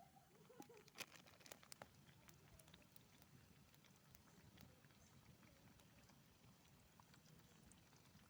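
Near silence, with a few faint clicks and taps in the first couple of seconds.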